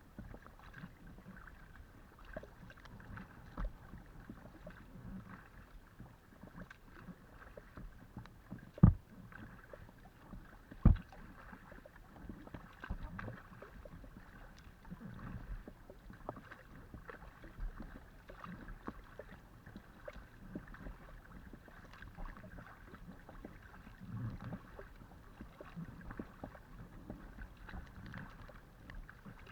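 Kayak paddling: the paddle blades dip and splash in the water and water laps against the hull in an irregular rhythm. Two sharp knocks stand out, about nine and eleven seconds in.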